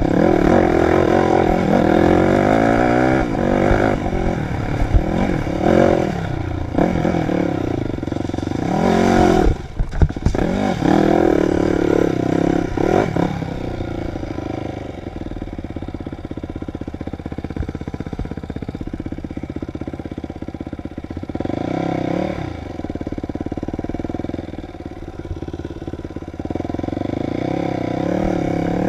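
Dirt bike engine revving up and down as it is ridden on an enduro trail, the pitch rising and falling through throttle and gear changes. About ten seconds in it drops off briefly with a few sharp knocks, and in the second half it runs steadier and lower.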